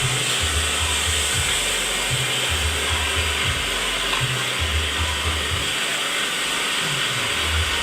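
Vibrating paving block press running with a steady whirring hiss, under background music with a low bass pulsing about once a second.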